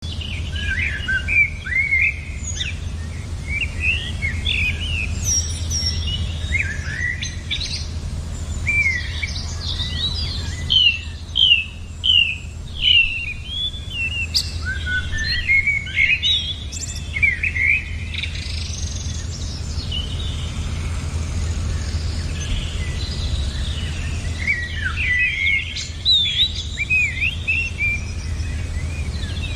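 Several small birds chirping and calling in quick, rising and falling notes, with a cluster of loud chirps about eleven seconds in, over a steady low rumble.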